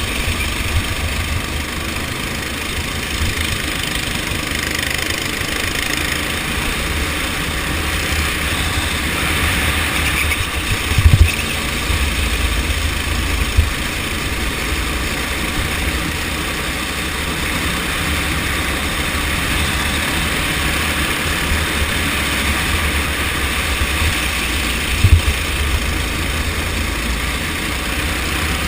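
Go-kart engine running steadily under a heavy low rumble. There are two sharp knocks, about eleven seconds in and again near the end.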